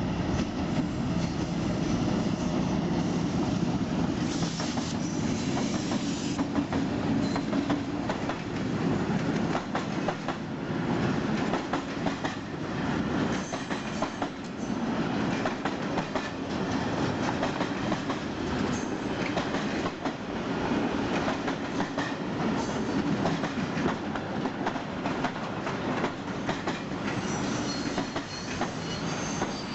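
Freight train wagons rolling past, wheels clacking rhythmically over the rail joints, with faint metallic wheel squeal at times.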